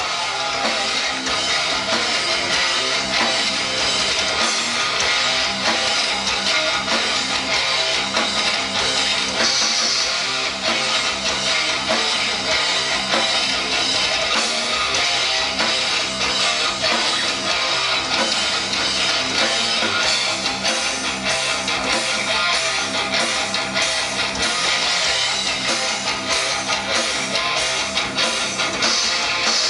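A live rock band playing an instrumental passage, led by strummed guitars over bass and a steady beat.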